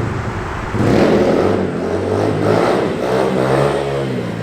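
SSR 150 dirt bike's single-cylinder four-stroke engine revving hard in repeated surges, the throttle opened and feathered to lift the front wheel into a wheelie. The revs jump sharply about a second in, then rise and fall several times.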